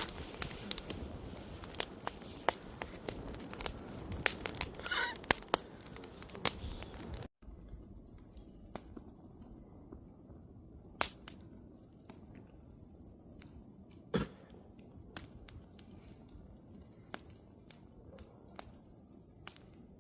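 Wood fire crackling, with frequent sharp pops over a steady hiss. About seven seconds in, the sound cuts abruptly to a quieter, sparser crackle with occasional single loud pops.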